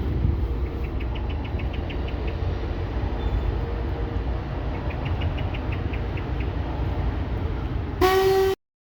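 Train running by with a steady low rumble and runs of quick light clicking, then a short, loud locomotive horn blast near the end that cuts off abruptly.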